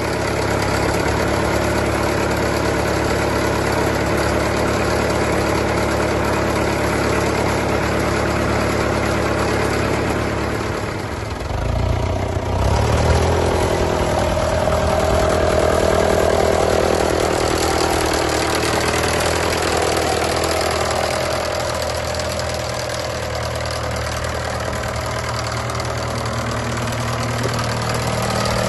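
Fordson Super Major's four-cylinder diesel engine running steadily. About eleven seconds in the sound dips briefly, then comes back louder with a wavering note for several seconds before settling to a steady run again.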